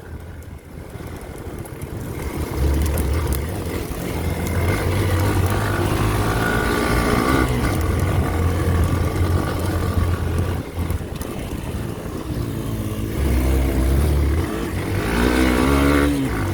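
Motorcycle engine running as the bike rides along, with the revs rising and falling near the end.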